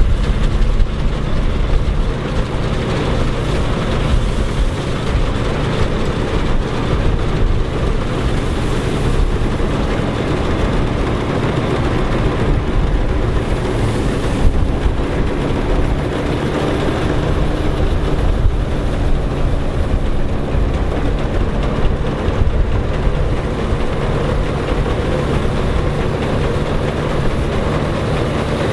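Engine of vintage harvest machinery, a tractor or combine, running steadily, a constant low mechanical din with no change in speed.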